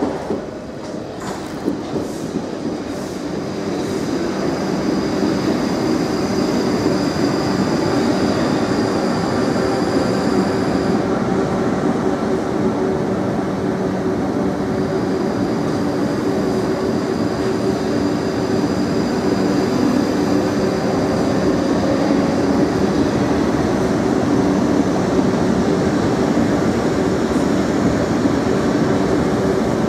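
Electric multiple-unit passenger train running slowly along the platform, a steady rumble of wheels and running gear. A thin high whine comes in twice, for several seconds each time.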